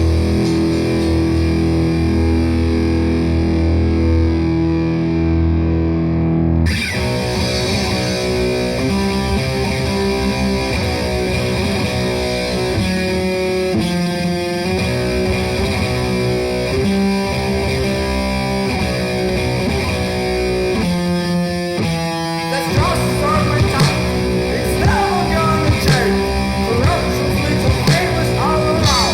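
Heavily distorted electric guitar music from a raw grindcore/thrash track: a sustained chord for the first several seconds, then a busier riff that starts abruptly about seven seconds in, with gliding, bending notes near the end.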